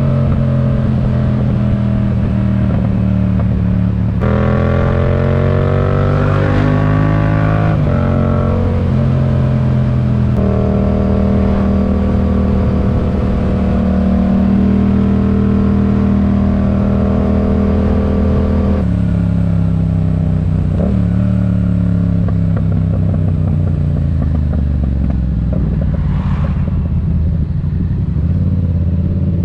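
Yamaha MT-07 parallel-twin engine through a RoadsItalia aftermarket exhaust on the move. The pitch climbs and steps with gear changes in the first several seconds, holds steady at cruise through the middle, then drops about twenty seconds in.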